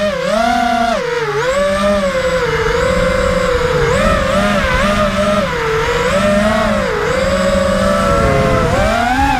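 Racing quadcopter's brushless motors (Emax Red Bottoms) whining, the pitch gliding up and down constantly as the throttle is worked through turns, and climbing near the end.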